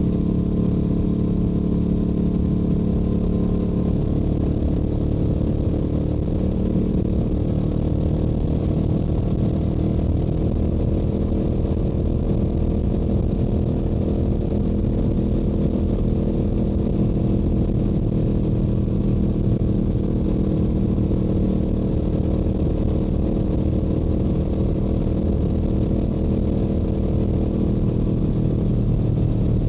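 Yamaha YZF-R7's parallel-twin engine through its stock exhaust, running steadily at highway cruising speed.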